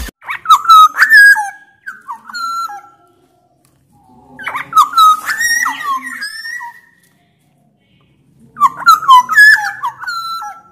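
Black-naped oriole singing loudly: three bouts of fluty, gliding whistled phrases, each two to three seconds long, separated by short pauses.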